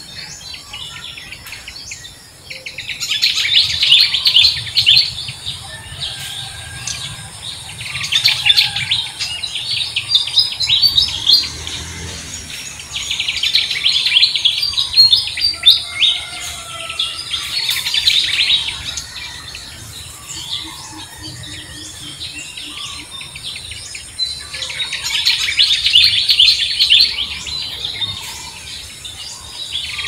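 Birds chirping in several bursts of rapid high chirps, each lasting a few seconds, with quieter gaps between them.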